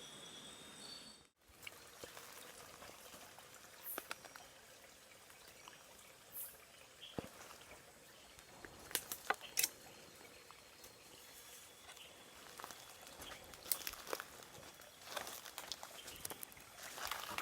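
Faint wet outdoor ambience: a low trickle of water with scattered small splashes, rustles and clicks. High steady insect-like trilling is heard at first and cuts off abruptly about a second in.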